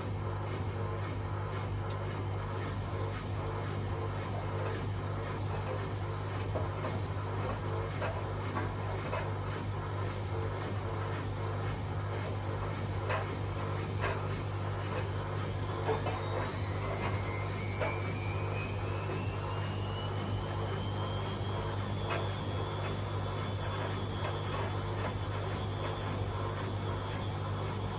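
Hotpoint Aquarius Extra washing machines (WMA37 and WMA48) running their spin cycles, with a steady drum and motor hum and a few light knocks. About halfway through, a motor whine rises in pitch as the spin speeds up, then holds steady.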